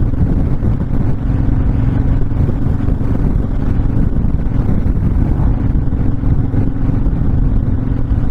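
Honda VTX1300's V-twin engine running steadily at cruising speed, with wind rushing over the microphone.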